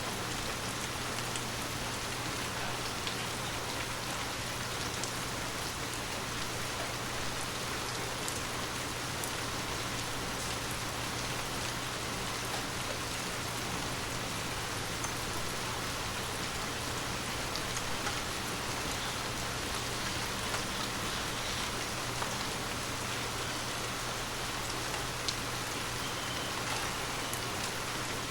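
Steady heavy rain falling on pavement, a constant hiss with scattered individual drop ticks.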